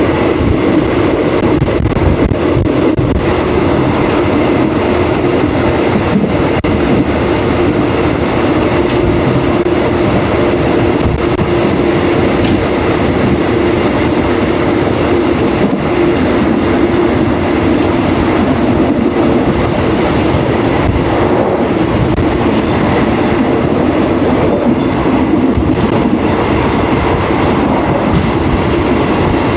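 Train running along the track: a steady rumble and rattle of wheels on rails with a constant hum.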